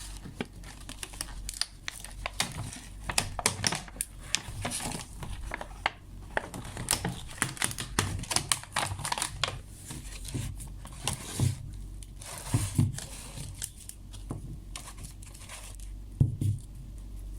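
Packaging of a small firework assortment being crinkled and torn open by hand. Irregular crackling runs throughout, with clicks and a few soft knocks as the fireworks are handled.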